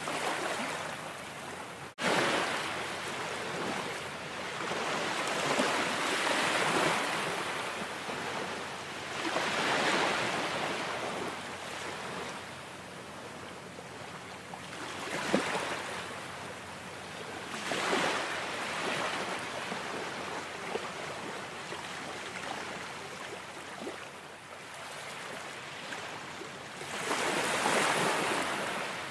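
Ocean surf: waves breaking and washing in, swelling and fading every few seconds, with a brief gap about two seconds in.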